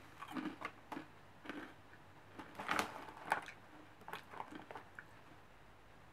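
A person crunching and chewing a crisp wasabi-flavoured snack, with irregular crunches that are loudest about three seconds in.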